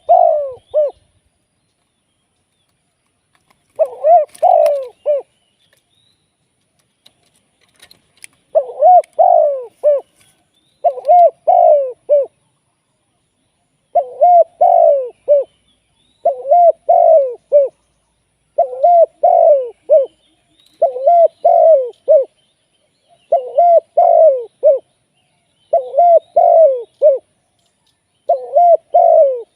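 Spotted dove cooing: repeated phrases of several low coo notes. Two phrases are separated by long pauses in the first eight seconds, then a phrase comes about every two and a half seconds.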